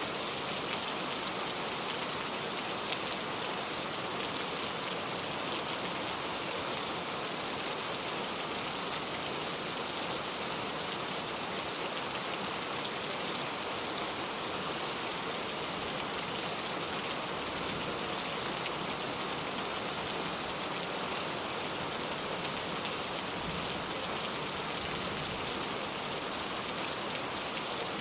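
Heavy rain pouring steadily, a dense even hiss of drops falling on surfaces.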